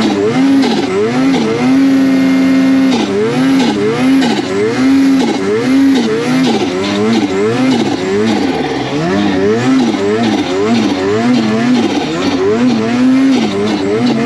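Snowmobile engine under throttle: it holds a steady pitch for about three seconds, then is revved up and down in quick repeated swells as the throttle is blipped over and over.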